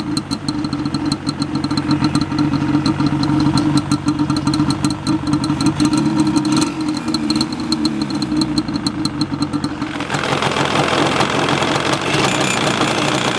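Yamaha Banshee 350's parallel-twin two-stroke engine idling with a rapid crackle and a grumbling noise that the owner suspects may be a bearing. About ten seconds in, the sound turns harsher.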